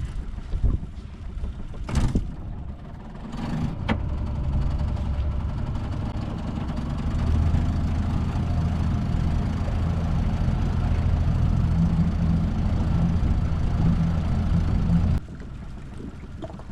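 A few sharp knocks in the first seconds, then the skiff's outboard motor running steadily. It gets louder about halfway in as the throttle comes up, and stops abruptly near the end.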